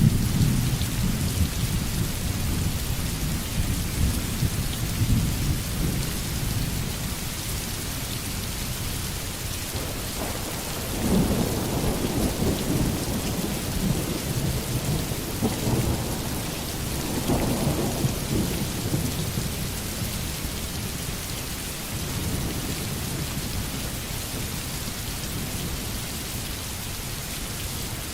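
Steady heavy rain falling, with low rolling thunder. The rumble swells about a third of the way in, rolls on in several surges for several seconds, then fades back under the rain.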